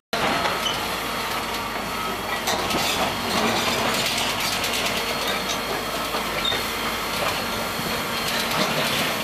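Liebherr R932 tunnel excavator working, its machinery running steadily under a continuous clatter of knocks and rattles, with a faint hiss.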